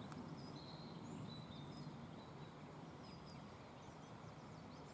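Quiet outdoor ambience: small birds chirping faintly now and then over a low steady rumble.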